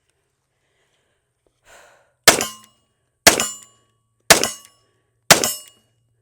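Four shots from a Magnum Research MR 1911C .45 pistol, evenly spaced about a second apart, each with a short metallic ring after it.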